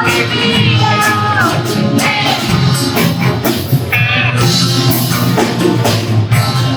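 Rock song with a singing voice over guitar and drums.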